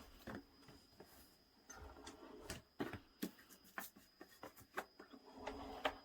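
Scattered light clicks and knocks, like objects being handled in a small room, with a faint steady high-pitched tone underneath.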